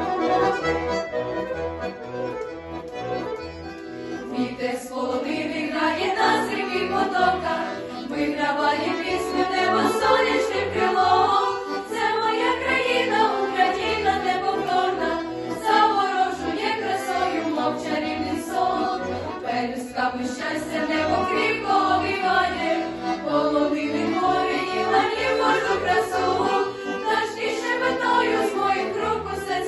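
A group of teenage school singers singing a Ukrainian song together over an instrumental accompaniment; the accompaniment plays alone for the first few seconds before the voices come in.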